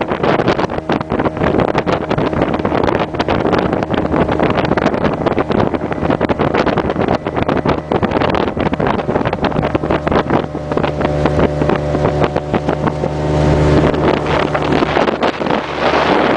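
Small motorboat's outboard engine running under way, with wind buffeting the microphone. The engine's steady drone comes through more clearly about two-thirds of the way in.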